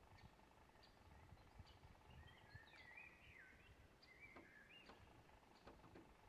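Faint birdsong over near-silent open-air background: a warbling phrase of chirps that bend up and down in pitch from about two seconds in to about four and a half, with scattered short high notes around it.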